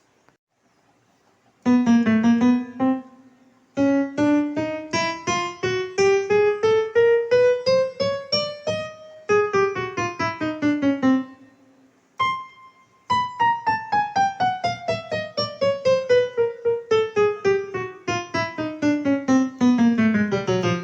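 Casio CT-X9000 electronic keyboard in a piano voice, its keys played one after another in quick runs as the keys are checked: a short group of notes, a long rising run, a falling run, one lone note a little past the middle, then a long falling run.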